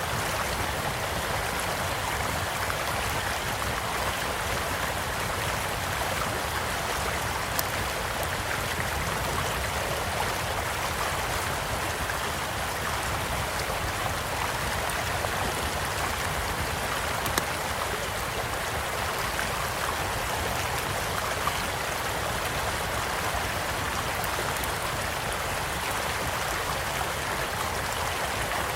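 Steady rush of a small stream flowing, with a few sharp pops from a wood campfire crackling alongside.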